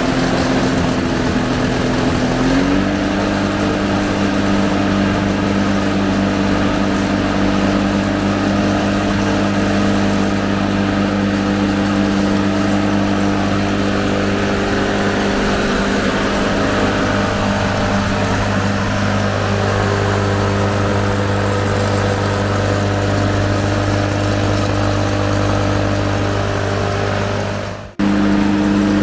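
Ransomes Bob Cat push mower's Briggs & Stratton 096722 two-stroke engine, built by Komatsu-Zenoah, running. Its speed shifts in the first few seconds, then holds steady. It breaks off sharply for a moment near the end and comes straight back.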